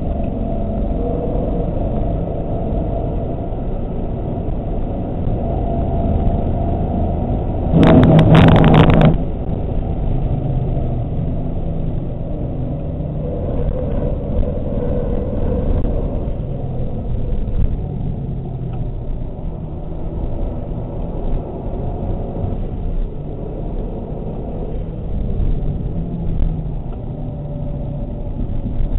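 Mazda 3 MPS's turbocharged 2.3-litre four-cylinder engine heard from inside the cabin on a fast lap, with a steady engine drone and road and wind noise. About eight seconds in, a loud rushing burst lasts about a second.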